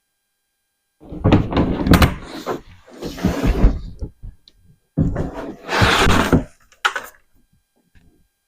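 Knocks, thumps and scraping from an emptied storage container being handled and shifted, starting about a second in.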